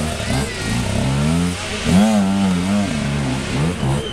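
Enduro motorcycle engine revving up and down over and over as the bike is ridden through deep mud, its pitch rising and falling every half second or so with the throttle.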